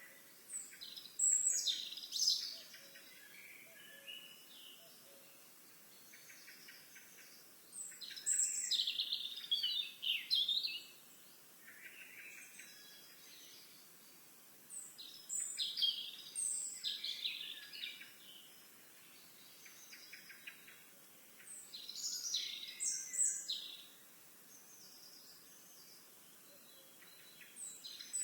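A songbird singing: the same quick, high, jumbled song phrase of about two seconds, repeated roughly every seven seconds, with softer chirps between and a faint steady outdoor background.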